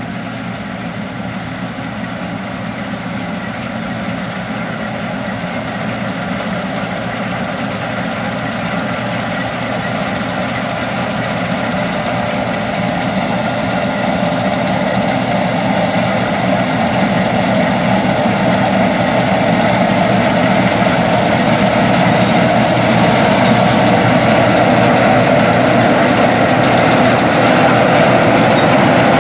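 Deutz-Allis Gleaner R60 combine harvesting wheat: its 8.3-litre Cummins diesel engine and threshing rotor running steadily under load. The sound grows steadily louder throughout.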